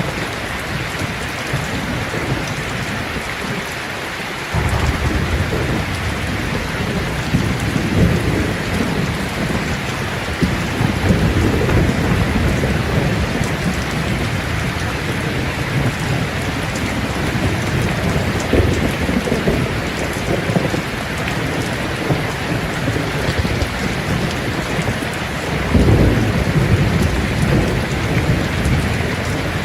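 Steady rain falling with thunder rumbling low under it; the rumble sets in suddenly about four and a half seconds in, and swells again near the end.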